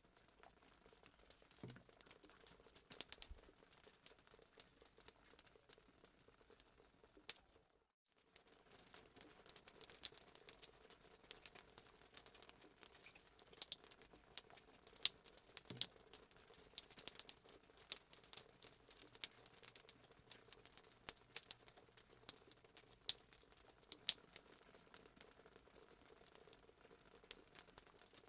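Fireplace sound effect: a wood fire crackling with many small irregular pops. It cuts out briefly about eight seconds in.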